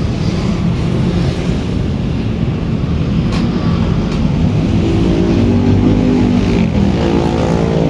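Motorcycle engine running with a steady low rumble; a set of steady tones joins in about five seconds in.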